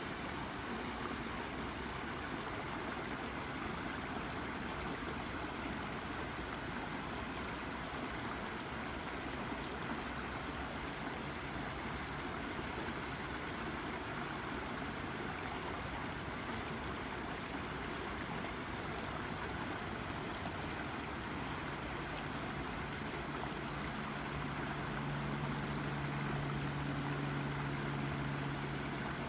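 Brook water babbling and splashing over rocks, a steady even rush. Over the last several seconds a low steady hum fades in beneath it and grows louder.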